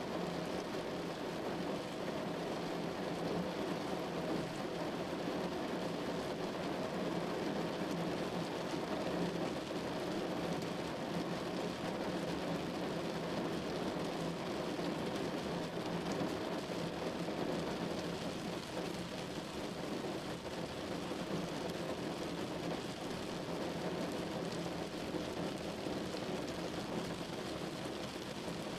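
Steady rain falling on a window, an even, unbroken wash of drops.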